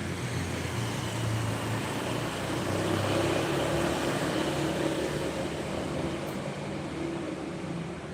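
Road traffic passing: vehicle engines running by with a steady rush of tyre noise, the engine hum rising and falling as vehicles come and go.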